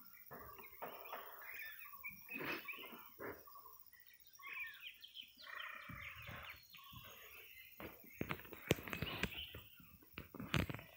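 Birds calling and chirping from the riverside forest, a busy mix of short calls. A few sharp knocks sound in the last few seconds.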